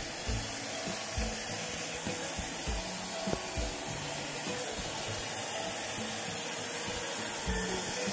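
Handheld hair dryer blowing a steady hiss of hot air, used to shrink heat-shrink tubing over an RC driveshaft's spring collar.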